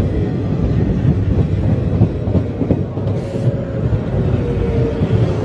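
JR West 115 series three-car electric train running close by along the platform: a loud rumble of wheels on rail with repeated clacks over the rail joints. A steady tone comes in near the end.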